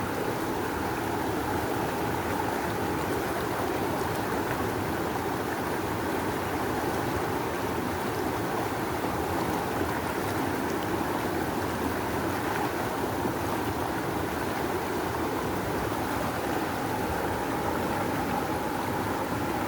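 River water rushing in a strong, steady current, a continuous even rush with no breaks.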